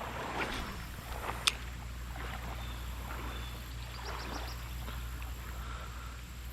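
Creek-side ambience: a steady low rumble with faint water and splashing noise, and one sharp click about a second and a half in.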